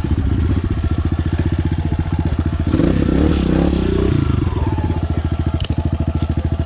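Enduro dirt bike engine running with a fast, even chug, a louder, rougher stretch of noise about three to four seconds in.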